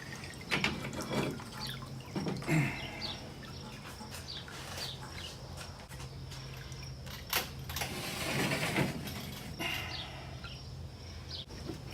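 Water dripping and splashing in an electrolysis tank as a heavy cast-iron milling table is rolled over in it, with a longer rush of water about eight seconds in. A steady low hum runs underneath.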